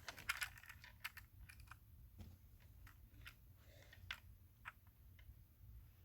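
Faint, irregular small clicks and taps: the parts of a 1/32 scale diecast toy car being handled as its body is taken off.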